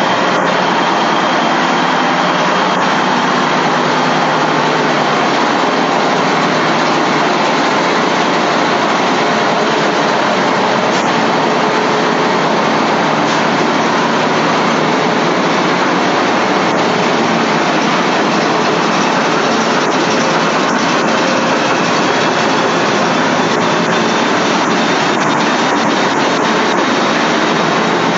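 Passenger ferry's diesel engines running steadily in the engine room, a loud, unbroken drone that holds one level throughout, with a few faint ticks in the last third.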